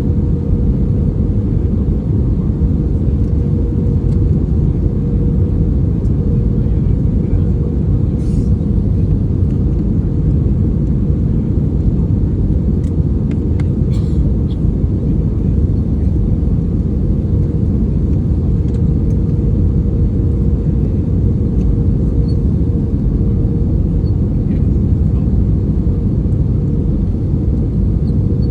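Steady low rumble of a jet airliner heard from inside the cabin as it comes in to land, with a constant hum running through it and a few faint ticks.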